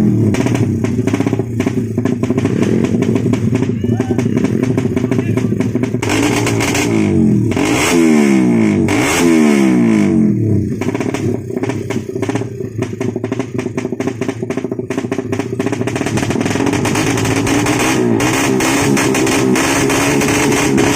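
Ported Suzuki Satria FU racing motorcycle engine being revved: the revs drop off after a blip at the start and after two more blips around 7 to 10 seconds in, then it is held at a steady, higher speed near the end.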